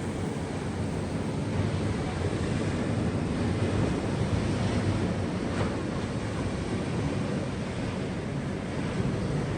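Sea waves washing on the shore with steady wind, the wind buffeting the microphone with a low rumble.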